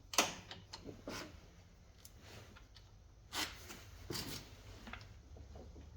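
Scattered light clicks and knocks of hand tools working on metal while the starter is unbolted from a Husqvarna lawn tractor, over a steady low hum.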